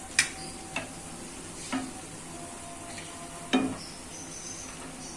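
Potato-and-onion fritters sizzling steadily in hot oil in a frying pan, with a steel spoon clinking against the pan four times as they are lifted out. The first clink, just after the start, and one about three and a half seconds in are the loudest.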